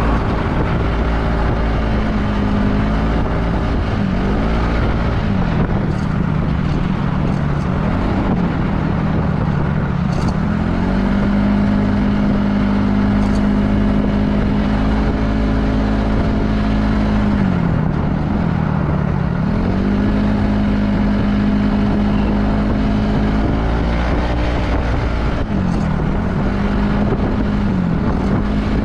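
Yamaha Majesty S scooter's single-cylinder four-stroke engine running under way with its CVT, fitted with Dr.Pulley weight rollers, over low wind and road rush. The engine note dips and climbs again several times as the throttle is eased and reopened, and holds steady at speed through the middle.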